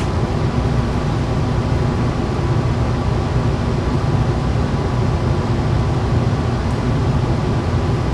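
Steady, unbroken machine noise with a strong low hum and no change in level.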